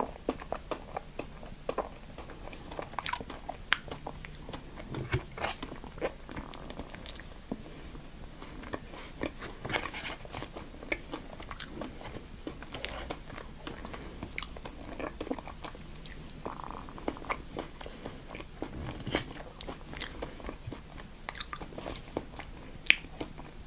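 Close-miked chewing and biting of food, with many short, irregular crunchy clicks.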